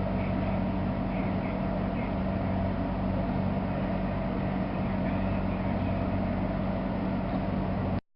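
Steady background hum and hiss, like a fan or appliance running, with a low drone. It cuts out abruptly near the end.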